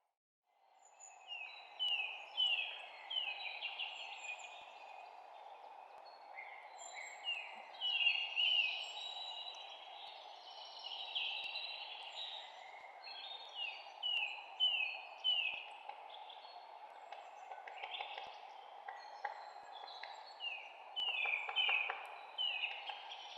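Songbirds chirping: overlapping series of short, quick falling notes, some in rapid runs, over a steady background hiss. The sound fades in from a brief silence at the start.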